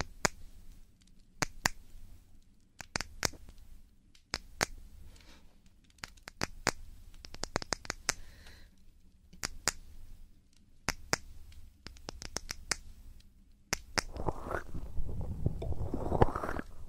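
Fingers flicking and tapping on the ears of an ASMR microphone, making sharp, irregular crisp clicks, some in quick runs, with a soft thud under several. About fourteen seconds in, it turns to a louder rubbing and scratching over the microphone's ears, still mixed with clicks.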